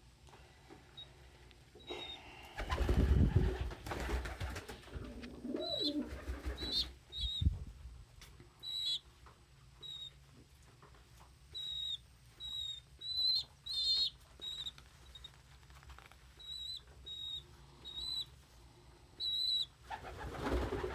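Indoor pigeons calling: short high peeps repeating at irregular intervals, with a few low coos. About three seconds in, a loud flutter of wings lasts a couple of seconds.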